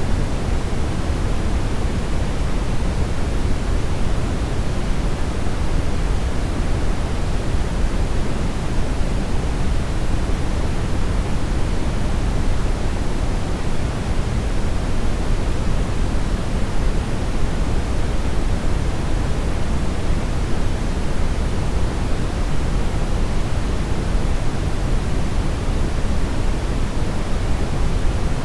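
Steady brown noise: an even, unchanging rumbling hiss, strongest in the bass and thinning out toward the treble.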